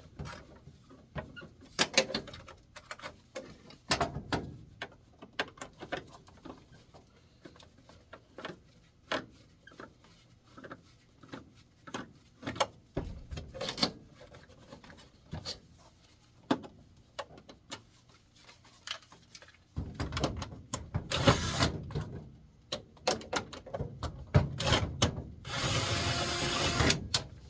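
Hand tools working the screws of a furnace blower motor: scattered metal clicks and knocks of a screwdriver turning and shifting, then a denser stretch of scraping and rubbing near the end, including one continuous rasp about a second long.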